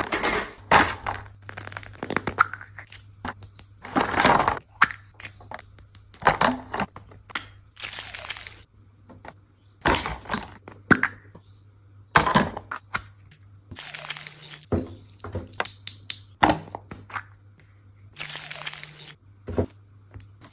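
Plastic toy packaging being crinkled, cracked and torn open in irregular bursts, with sharp crackles, over a faint low steady hum.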